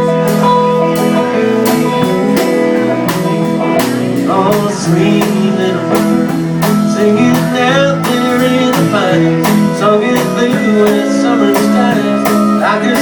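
Live country band playing an instrumental passage: strummed guitar under a lead melody with bending, wavering notes.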